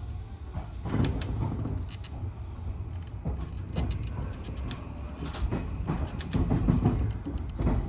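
Odakyu 1000-series electric train running, a steady low rumble with scattered sharp clicks and knocks from the wheels and running gear.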